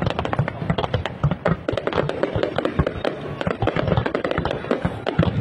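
Fireworks crackling overhead: a dense, irregular run of sharp pops, many per second.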